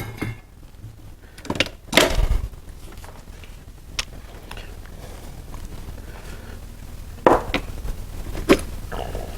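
A few scattered sharp metallic clicks and knocks over a low steady hum: engine parts and tools being handled while the main bearing cap bolts of a Chevy 350 engine are oiled for torquing.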